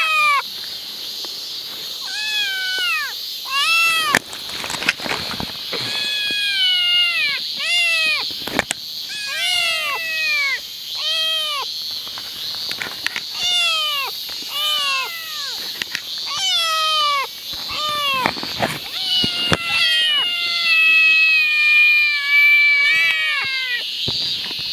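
A cat meowing over and over: short meows that rise and fall in pitch, coming about once a second, with a longer drawn-out meow near the end.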